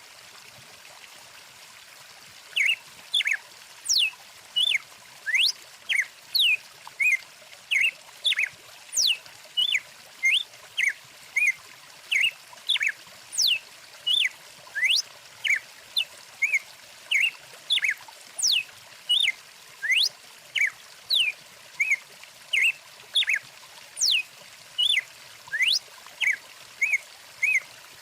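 Stream water running with a steady hiss, joined about two and a half seconds in by bird calls: short chirps and quick rising or falling whistles, about one or two a second, loud over the water.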